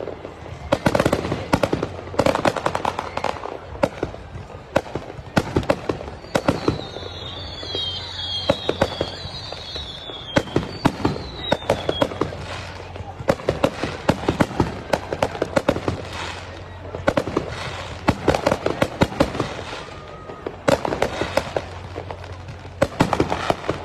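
Aerial fireworks show: a steady string of sharp bangs and crackling bursts, with a few falling whistles between about seven and twelve seconds in.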